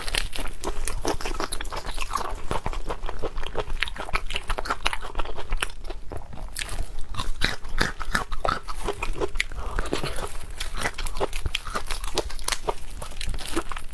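Close-miked chewing and biting of seafood: a dense run of irregular wet smacks and crunchy clicks, with no pauses.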